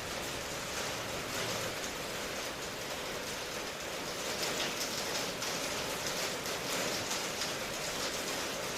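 Steady rain falling, an even hiss of drops with no thunder rumble.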